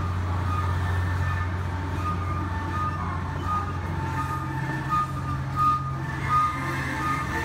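Canadian Pacific Holiday Train cars rolling past with a steady low hum, a few knocks from the wheels in the second half. Over it a grade-crossing bell rings, a short high ding repeating about every 0.7 s.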